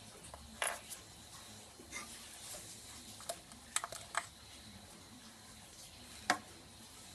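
Scattered light clicks and taps of small parts and tools being handled on a workbench, with a short cluster of clicks in the middle and a sharper one near the end.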